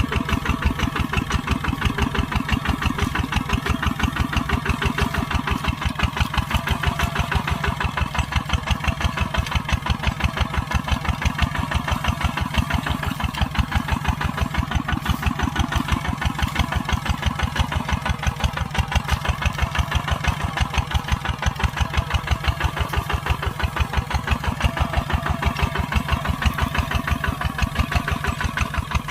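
Kubota tractor's diesel engine running steadily with an even, fast chugging pulse, working a field at plowing.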